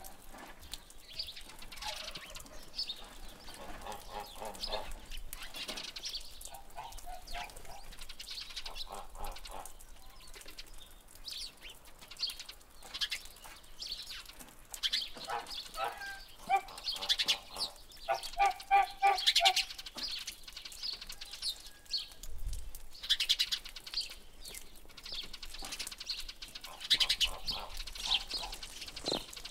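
Several wild birds calling over one another, mixing high chirps with runs of lower, quickly repeated calls that are busiest about halfway through.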